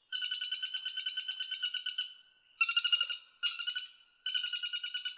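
Woodpecker calling: a fast rattling series of sharp, repeated notes, about seven a second. It comes in runs that break off briefly about two seconds in and again near three and four seconds.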